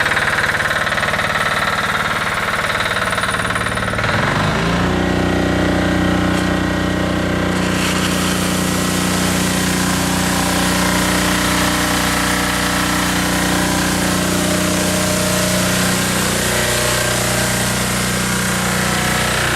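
Diesel engine running, joined about four and a half seconds in by the sprinkler truck's Yanmar single-cylinder diesel sub-engine driving the water pump. About eight seconds in, a steady hiss of pressurised water spraying starts and continues alongside the engine.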